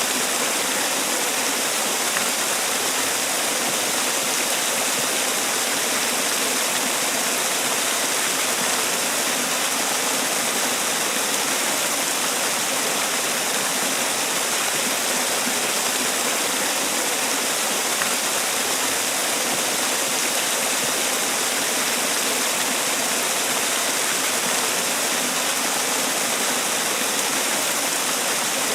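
Man-made waterfall: water pouring and splashing in a steady, even rush that does not change.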